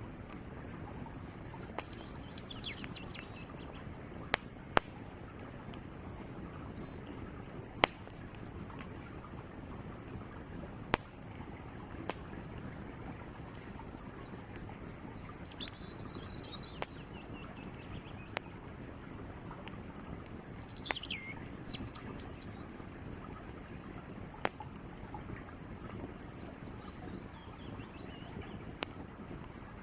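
Campfire crackling with sharp pops every few seconds over the steady rush of a creek. Birds chirp several times, in short high calls that fall in pitch.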